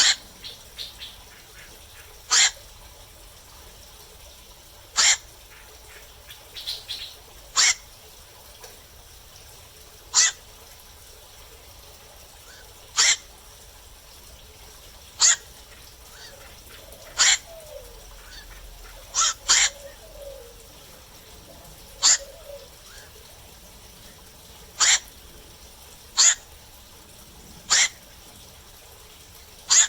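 Black-crowned night heron calling: short, harsh single calls repeated roughly every two to three seconds, with two in quick succession about two-thirds of the way through.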